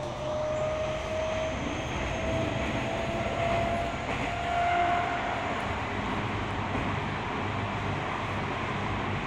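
Running noise heard inside a Toyo Rapid Railway 2000 series electric train car: a steady low rumble from the wheels on the track, with a motor whine that rises slowly in pitch and stops about five seconds in.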